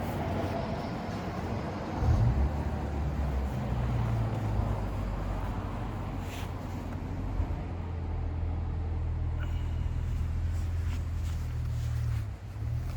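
Subaru Legacy 3.0R's flat-six engine idling through an aftermarket exhaust, a steady low drone, with a brief louder swell about two seconds in.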